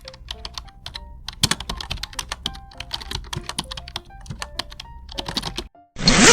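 Rapid, irregular typing on a computer keyboard, many key clicks in a row, played as a sound effect. Right at the end comes a short, loud burst of noise.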